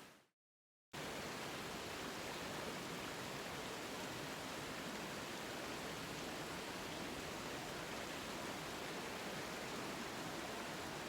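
Steady, even rushing of a forest stream, unchanging throughout, after a brief dead silence near the start.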